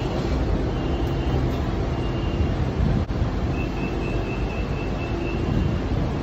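BTS Skytrain car standing at a station with its doors open: a steady low rumble throughout, and from about halfway a quick run of high beeps, about four a second for two seconds, the warning that the doors are about to close.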